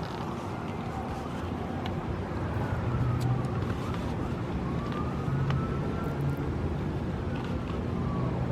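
Steady low hum of a car, with a faint siren wailing slowly up and down over it.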